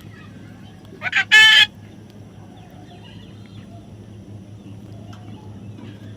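A parrot gives one loud call about a second in: two short notes, then a longer clear-pitched note. A low steady hum runs underneath.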